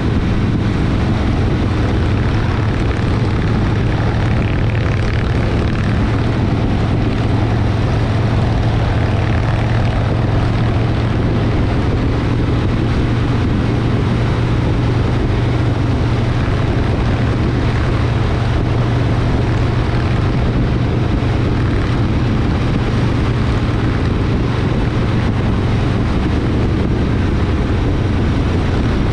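Harley-Davidson V-twin motorcycle engine running steadily at cruising speed, its low drone holding one pitch throughout.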